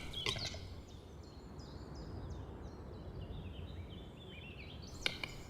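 Small birds singing in a forest: a steady run of short, high chirping notes over a faint low rumble. A single sharp click near the end.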